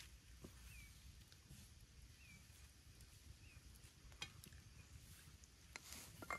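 Near silence: faint outdoor ambience with a few short, high, falling chirps and a few light clicks.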